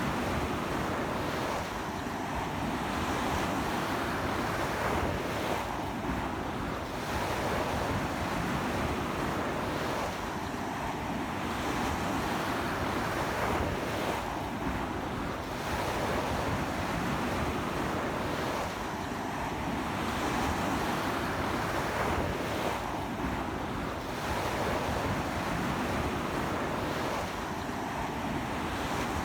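Sea waves breaking and washing up a sandy beach in a strong onshore wind, the surf swelling and easing roughly every four seconds, with wind buffeting the microphone.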